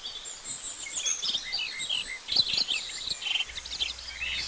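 Birds chirping and twittering: a dense, rapid run of short high chirps and whistles, played in answer to a request for a dance mix.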